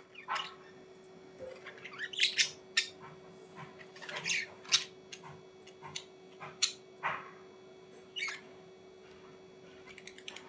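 Budgerigars chirping and squawking in short, scattered calls, over a steady low hum.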